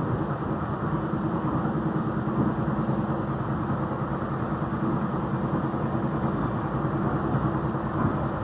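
Steady running noise of a UTA FrontRunner commuter train at speed, heard from inside the passenger car: an even rumble with a low hum.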